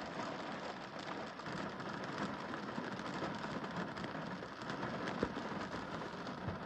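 Rain falling on a car windscreen: a steady hiss of many small drop strikes, with one heavier drop hitting about five seconds in.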